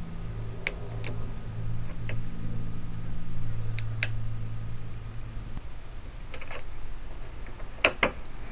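Light metallic clicks and ticks of a pick working the wafers of a car trunk lock cylinder, with a few sharper clicks near the end. A steady low hum runs underneath and stops about halfway through.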